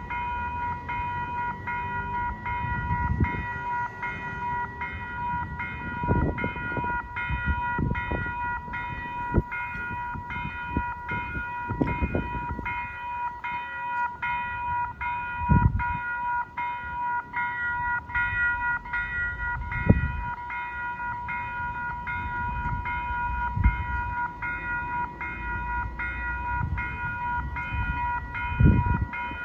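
Railroad grade-crossing warning bell ringing on and on with evenly spaced strikes, while the crossing is active for a train stopped at the adjacent station. Irregular low rumbles and thumps sound underneath.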